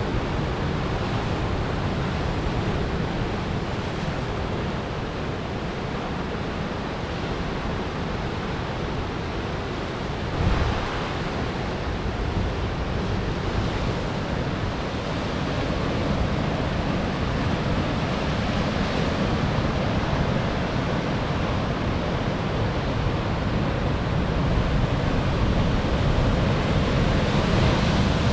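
Atlantic surf breaking on coastal rocks: a continuous wash of waves with one brief louder surge about ten seconds in, building slowly towards the end, with some wind on the microphone.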